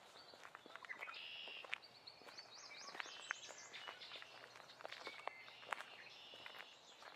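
Several birds singing in a forest, with a run of quick rising notes about halfway through, over faint footsteps on the forest floor.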